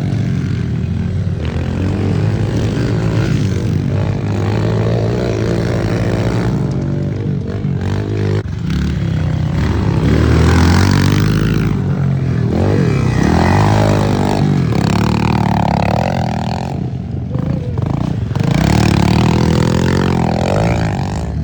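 Several small pit bike engines racing, revving up and down, their pitch repeatedly rising and falling as the bikes pass and overlap.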